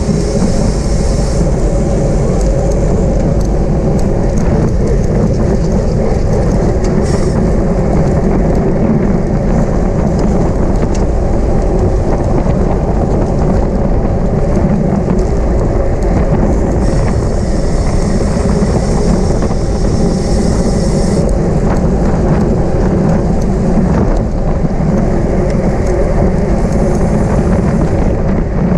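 Steady rush of wind on the microphone of a camera riding along in a bicycle criterium race, loud and constant, with road and bike noise underneath.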